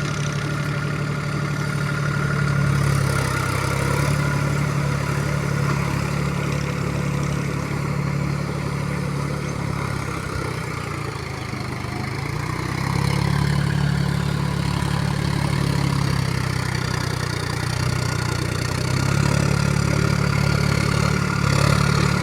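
Diesel engine of heavy earth-moving machinery running under varying load. It eases off about ten seconds in, then picks up again a few seconds later and once more near the end.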